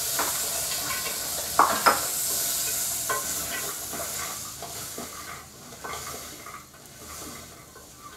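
Soaked green peas sizzling in hot oil and spice masala in a pressure cooker while a wooden spatula stirs and scrapes them against the pot. Two sharp knocks of the spatula about two seconds in are the loudest sounds, with lighter scrapes roughly once a second after. The sizzle fades toward the end.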